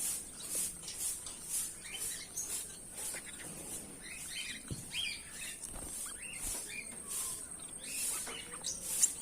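Goldfinches twittering with many short, quick chirps. A regular high pulsing, a little under two a second, runs beneath them.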